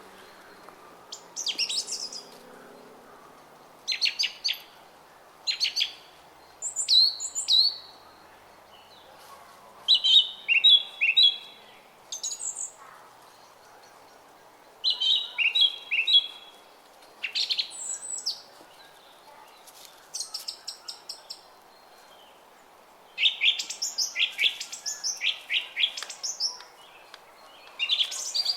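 Songbirds singing short, quick chirping phrases, a new phrase every second or two, over the steady sound of a running brook.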